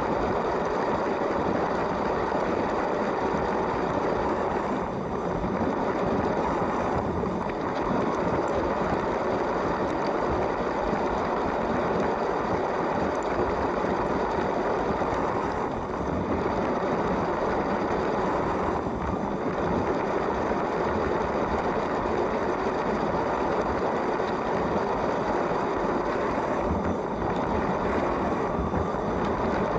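A LEGO train's electric motor running and its plastic wheels rolling steadily along plastic track, a continuous whirring rumble with brief dips every few seconds.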